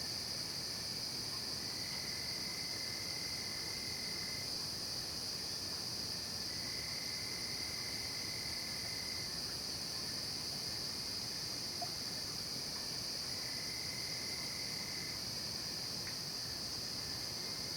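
Night chorus of crickets and other insects, a steady high-pitched drone. A lower trill joins three times, for two to three seconds each.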